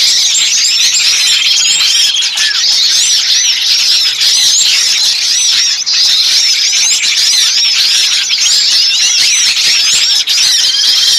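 Dense, loud chorus of many small songbirds chattering and calling over one another in rapid high chirps, with a short trill recurring every few seconds. It is a bird-trapping lure recording of noisy, agitated small birds.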